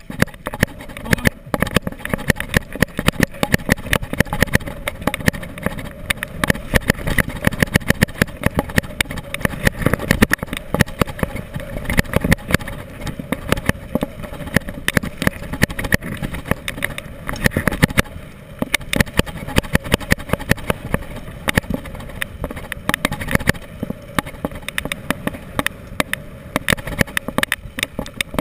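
Continuous rattling and clattering over a steady rumble of rolling and wind, the sound of a bike ride over rough ground picked up by a GoPro action camera mounted on the bike or rider.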